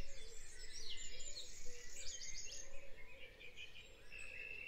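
Birds chirping in the background, a steady run of short high chirps.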